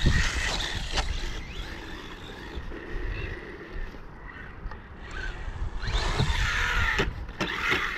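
A 1/18-scale RC truck being driven over rough ground: the electric motor's whine comes and goes, with knocks and clatter as the truck hits bumps. It is busiest near the start and again in the last two seconds, and quieter in the middle.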